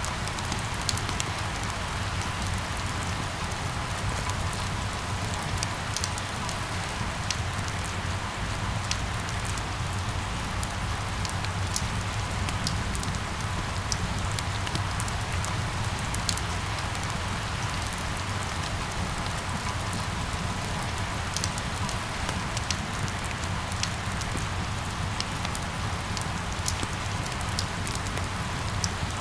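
Steady rain falling, with frequent short, sharp taps of individual drops over the even patter.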